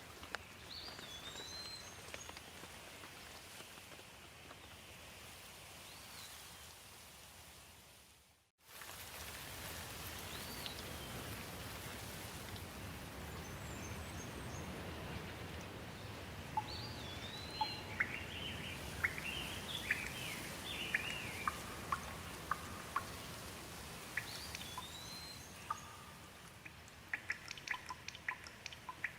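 Steady rain falling, with birds calling now and then over it and a cluster of chirps partway through. The sound fades out briefly and comes back about eight seconds in, and sharp drips patter near the end.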